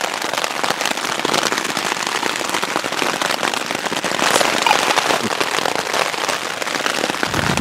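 Rain pattering on tent fabric, heard from inside the shelter: a dense, steady patter of many sharp little ticks.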